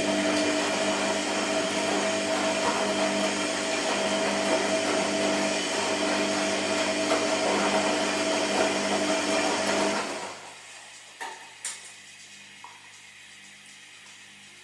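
Washing machine running: a loud whirring rush over a steady motor hum for about ten seconds, then it stops. Two short clicks follow in the quiet pause.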